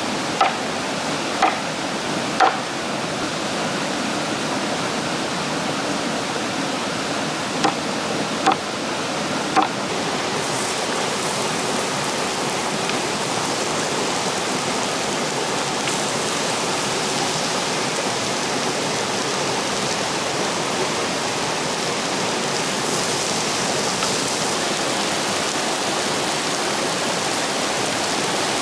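Steady rushing of falling water, a waterfall's even noise. About six short, light clicks or taps sound in the first ten seconds.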